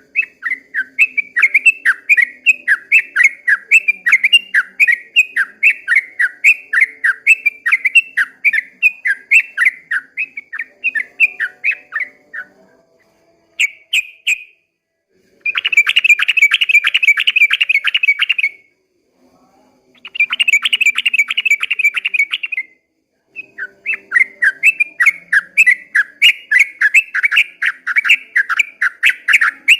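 Yellow-vented bulbul (trucukan) singing: a long run of quick rising chirps, about three a second, broken in the middle by two faster continuous trills of about three seconds each with short pauses between, then the chirp series resumes.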